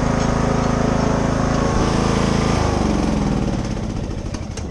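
Engine running steadily, then at about two and a half seconds dropping in pitch and dying away toward the end, as if being throttled down and switched off.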